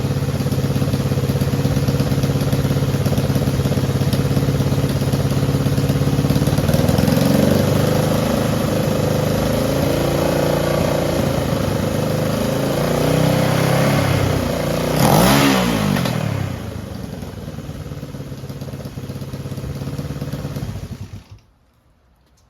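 Honda CJ360's twin-cylinder engine running under way, its revs rising and falling through the gears. It swells to its loudest about fifteen seconds in, then drops to a lower, steadier run before the sound cuts off abruptly near the end.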